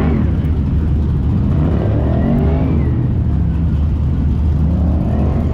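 Car engine running with a steady low rumble, its pitch rising and falling several times as the revs go up and down.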